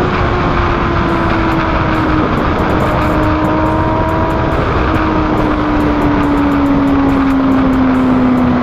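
Motorcycle with an SC Project aftermarket exhaust, its engine running at a steady cruise with the pitch sinking slowly as it eases off, over a steady rush of wind noise.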